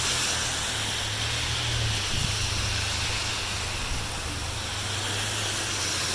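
Thunderstorm wind blowing steadily: a continuous hiss with a low rumble of wind on the microphone that swells and eases a little.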